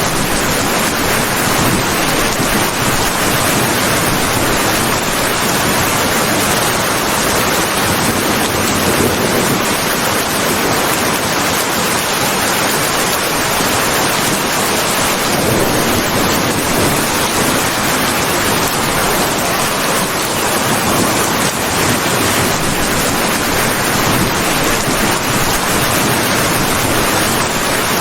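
Heavy rain falling steadily, a dense even hiss that does not change.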